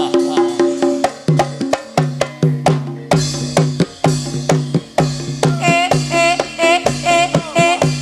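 Banyumasan ebeg gamelan music: struck tuned notes ringing in a repeating pattern under quick, sharp hand-drum strokes. About five and a half seconds in, a wavering sung melody comes in over it.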